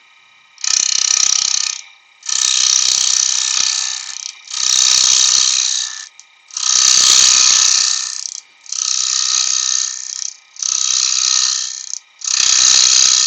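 Turning tool cutting spinning spalted beech on a wood lathe, in seven rough, hissy cutting passes of a second or two each, with the lathe's faint steady hum between them.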